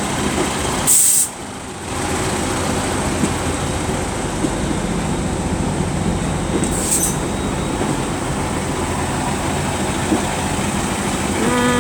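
Pair of Class 158 diesel multiple units moving along the platform, a steady rumble of engines and wheels, with two short high hisses, about a second in and about seven seconds in.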